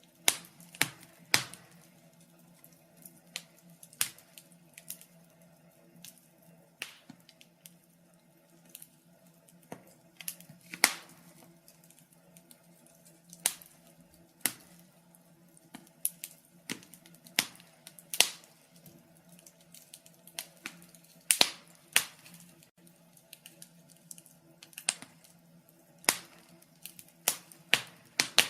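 Fire crackling: sharp, irregular pops and snaps, several every second, over a faint steady hum.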